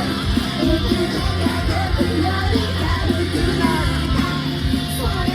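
Live idol rock song over a club PA: distorted electric guitars and a steady drum beat with a sung vocal line.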